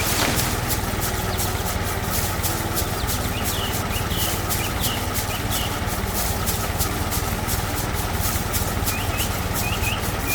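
Tractor engine running steadily with a low hum and a regular ticking, while small birds chirp briefly twice.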